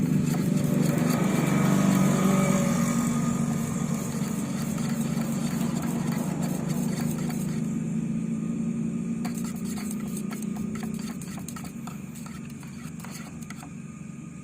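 A motor running steadily with a low hum that slowly fades, with light clicks in the second half.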